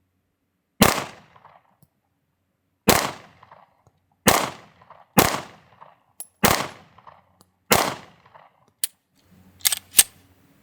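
Shield X compact pistol fired six times in slow, aimed succession, one to two seconds apart, each shot followed by a short echo: slow fire while zeroing a red dot sight. A few faint clicks follow near the end.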